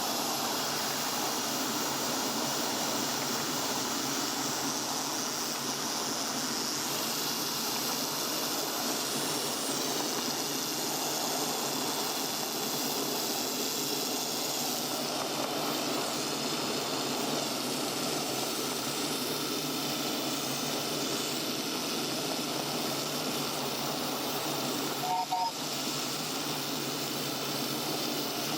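Steady hissing running noise of a 7¼-inch gauge miniature steam train on the move, with a brief faint two-note chirp near the end.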